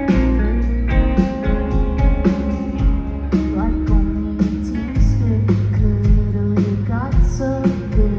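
Indie rock band playing live: guitars, bass and drums with a steady beat.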